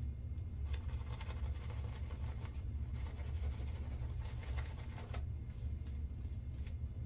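Safety razor strokes scraping stubble through menthol shave lather, a dense crackling scrape lasting about four and a half seconds, then a few single light ticks. A steady low hum runs underneath.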